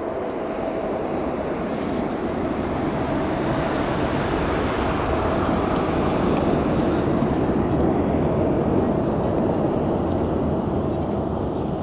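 Jet engine noise from a Boeing 747-8F freighter's four GEnx-2B engines as the aircraft passes. It is a broad rushing roar with a steady droning tone under it, swelling gradually to its loudest about eight seconds in.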